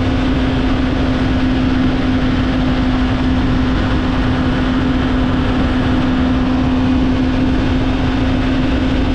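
Motorcycle cruising at a steady speed, picked up by a GoPro Hero 13 mounted on the helmet: a steady engine drone held at one pitch under a heavy rush of wind and road noise on the camera's microphone.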